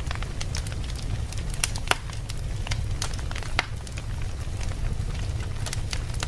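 Fire burning in a fireplace: irregular sharp crackles and pops over a steady low rumble, the loudest pop a little under two seconds in.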